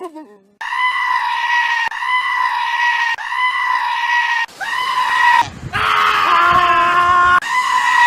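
Goat screaming in a run of loud, high-pitched, human-like calls, each about a second long and held at a steady pitch. One call about six seconds in is lower and rougher.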